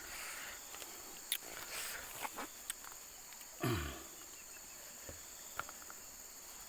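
Steady high insect chirring with a few sharp clicks, and a short louder low sound falling in pitch about halfway through.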